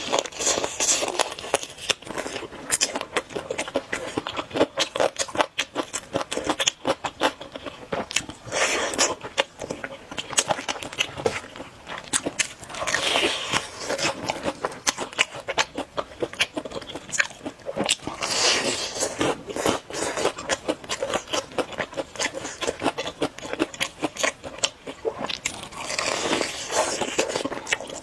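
Close-miked eating of spicy noodles with eggs: wet chewing and smacking clicks go on throughout, with about five longer noisy slurp-like swells a few seconds apart.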